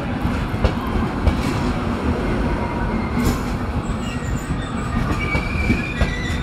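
Passenger coaches of an arriving train rolling past, wheels rumbling and clicking over the rail joints. Thin high wheel squeals join in from about four seconds in.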